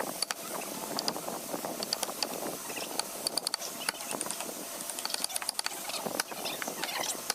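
Irregular light clicks and taps from hand work on wood, over a steady background hiss.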